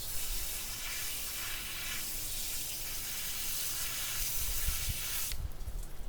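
Steady spray of water hissing as a gutted bream is rinsed clean, stopping suddenly about five seconds in.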